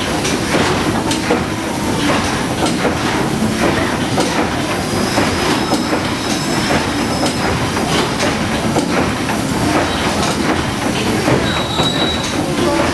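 The paddle steamer Waverley's three-cylinder triple-expansion steam engine running: a busy, unbroken clatter of knocks and clanks from the moving machinery over a steady hiss.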